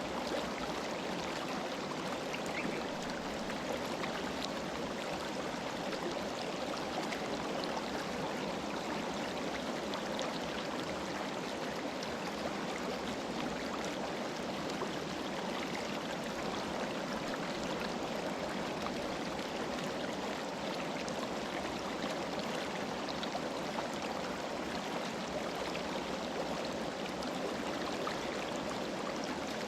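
Mountain river flowing, a steady rush of moving water with no change.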